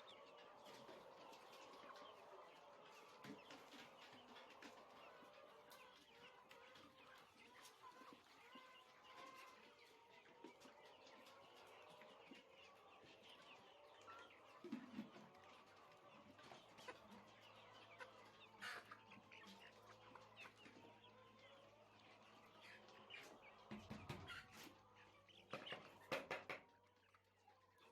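A flock of chickens clucking and chirping faintly. A low steady hum joins about halfway through, and a few sharp knocks come near the end.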